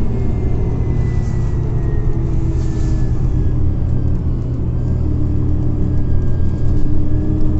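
Scania OmniCity CNG city bus driving, heard from inside the passenger cabin: a steady low engine and road rumble with a faint whine held above it.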